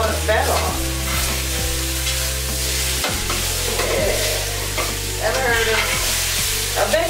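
Potatoes and bacon frying in pans with a steady sizzle, while a spatula scrapes and stirs the potatoes in a stainless steel pan, giving a few short clicks. Music with a low bass line plays underneath.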